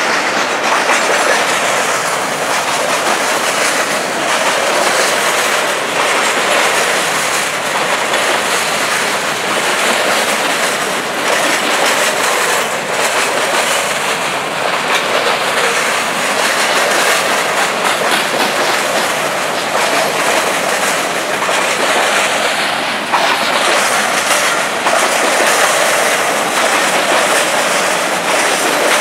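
Covered hopper cars of a Canadian Pacific grain train rolling past: a steady rumble and clatter of steel wheels on the rails, with occasional sharper knocks.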